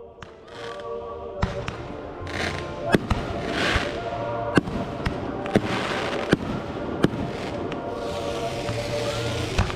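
Fireworks going off: a string of sharp bangs about once a second, with crackling hiss between them, over music playing on speakers.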